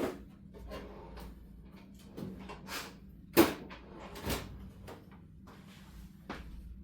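Knocks, clacks and rustling of things being handled and set down, with a sharp clack about three and a half seconds in and another knock near the middle.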